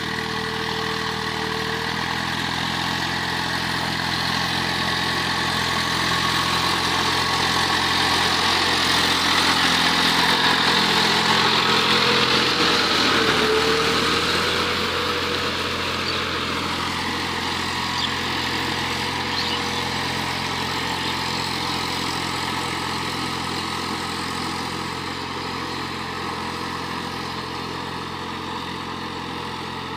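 Eicher DI 480 tractor's diesel engine running steadily, growing louder toward the middle and then fading somewhat.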